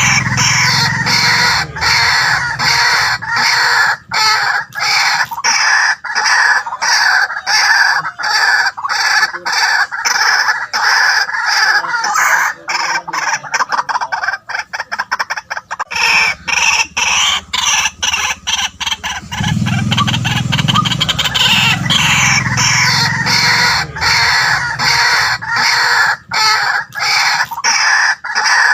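White-breasted waterhen calling on and on, a fast run of harsh, repeated notes with no break.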